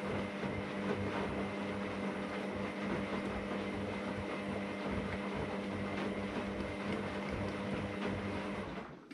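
AEG Lavamat Turbo washer-dryer running: a steady motor hum over a rumbling churn. It cuts off shortly before the end.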